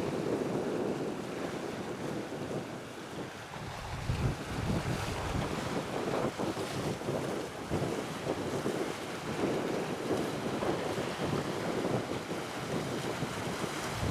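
Wind gusting against the microphone in irregular surges over a steady wash of the sea.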